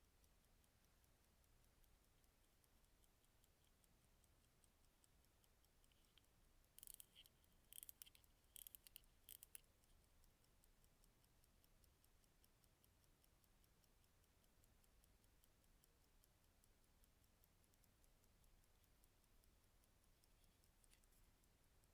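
Vintage Thiel hand-wound mechanical watch movement ticking faintly, fast and even. About a third of the way in comes a short run of louder clicks and knocks.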